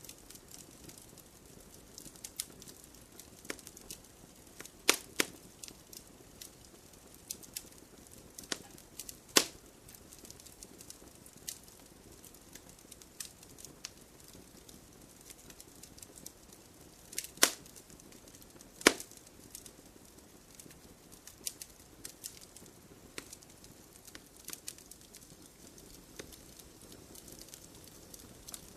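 Campfire of burning wood crackling: irregular small snaps over a soft hiss, with a few louder pops.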